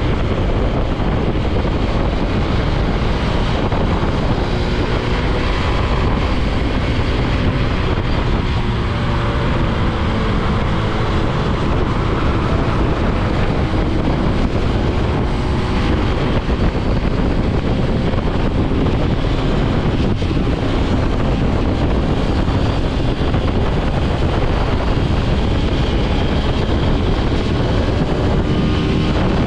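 Motorcycle engine running under way, its pitch rising and falling with the throttle, under heavy wind rush on the microphone.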